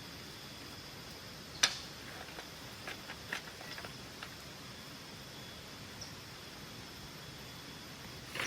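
Steady outdoor forest background with a sharp knock about one and a half seconds in, a few lighter clicks a couple of seconds later, and another sharp knock at the very end, from hand work on the shelter.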